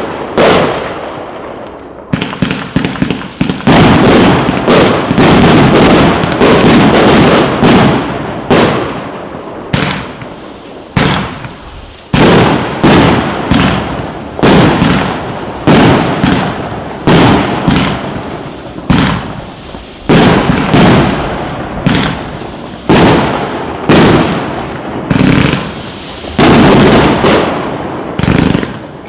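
Klasek C304MK King 304-shot fireworks cake with 1.2-inch tubes firing without a break: loud shot after shot bursting in quick succession, about one or two a second. Each bang hits suddenly and fades before the next.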